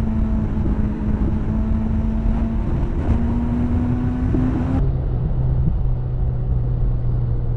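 Motorcycle engine running at a steady cruising pitch under heavy wind rush. About five seconds in, an abrupt edit switches to another clip in which the engine holds a steady, lower note.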